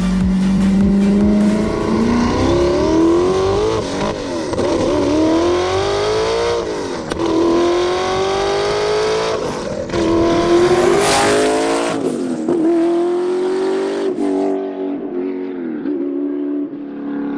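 Twin-turbocharged Audi R8 V8 accelerating hard: the revs climb and then drop sharply at each upshift, several gears in a row, with a brief sharp hiss about eleven seconds in.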